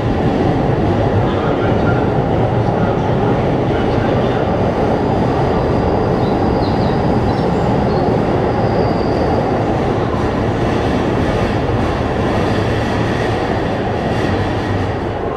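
Keikyu electric train moving past on the adjacent track: a steady, loud rumble of wheels and running gear on the rails, easing off near the end as it clears the station.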